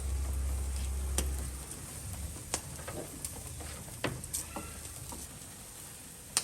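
Food sizzling on a grill, with scattered sharp clicks and knocks; a low rumble fades out about a second and a half in.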